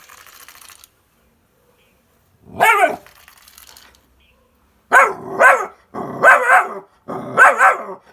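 A dog barking: a single bark about two and a half seconds in, then a run of loud barks in quick pairs from about five seconds on.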